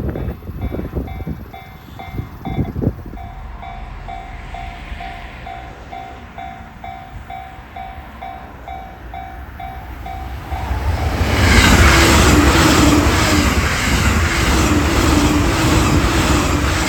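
Japanese level-crossing alarm dinging about twice a second. About eleven seconds in, an electric train passes at speed and drowns out the alarm, its traction motors growling while its wheels clatter over rail joints in a quick rhythm.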